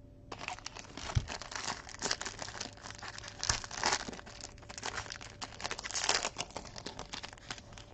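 Plastic wrap crinkling and tearing as a sealed trading-card box is unwrapped and opened, a dense run of crackles with louder bursts about three and a half and six seconds in.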